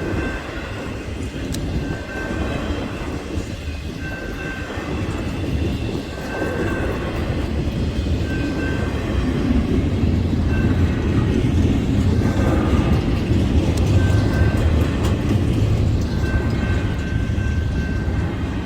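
Train passing at high speed: a steady, loud rumble of wheels on rail that swells in the second half. A faint short high ring recurs about every two seconds.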